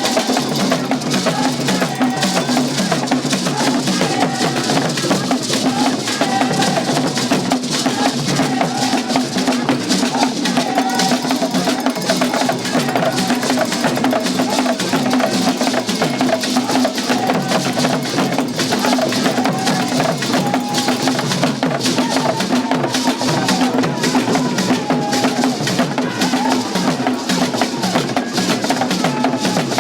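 Drum and percussion music with a dense, steady run of sharp clicking strikes, playing loudly without a break.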